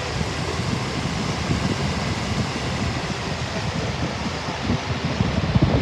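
Lasko B20540 box fan running, a steady rush of moving air with low buffeting where the airflow hits the microphone.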